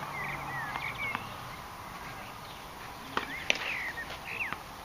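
A small bird singing in two short bursts of quick chirping notes, each about a second long, over a soft outdoor hiss. A few sharp taps fall among them, the loudest about three and a half seconds in.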